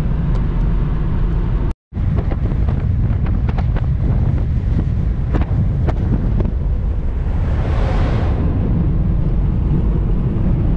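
Car driving, heavy road rumble with wind buffeting the microphone, scattered knocks, and a swell of rushing noise around eight seconds in. The sound cuts out for a moment about two seconds in.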